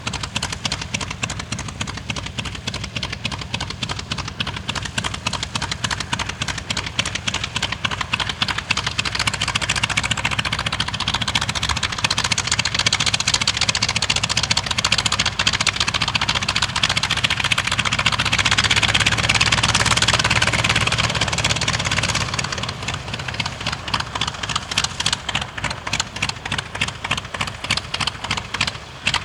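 Wright R-1820 nine-cylinder radial engine of a North American T-28 Trojan running at display power with a rapid, rough throbbing beat. It swells to its loudest between about 12 and 22 seconds, then fades as the aircraft makes a low pass.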